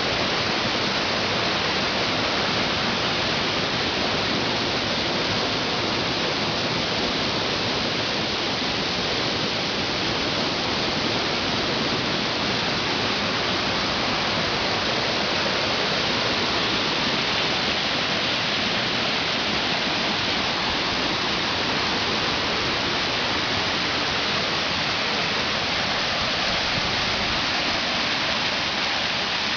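Waterfall splashing down close by: a steady, even rushing of falling water.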